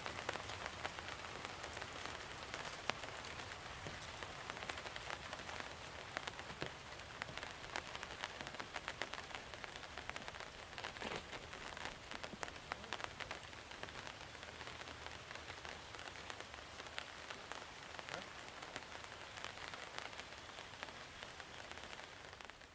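Steady monsoon rain falling and pattering on surfaces, with many individual drops ticking through it.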